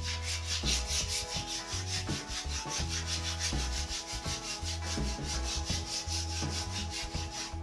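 Sandpaper rubbing along a new wooden snooker cue shaft in a rapid, even rhythm of about six strokes a second.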